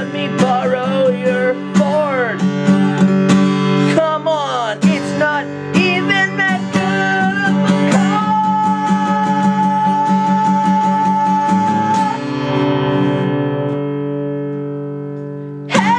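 Acoustic guitar strummed in chords under a singing voice, which holds one long note about halfway through; then a final chord rings out and fades away.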